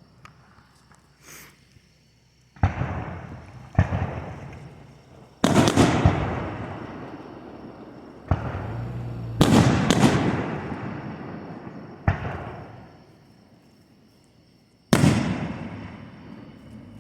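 Fireworks display: a series of sharp shell bursts about a second to three seconds apart, each followed by a long echoing rumble and crackle. Two bursts come close together about nine and a half seconds in, and a last loud one comes near the end.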